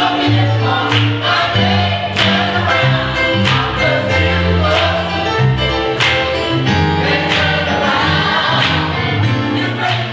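Gospel music: a choir singing over a band, with deep sustained bass notes and regular sharp strokes that reach high up.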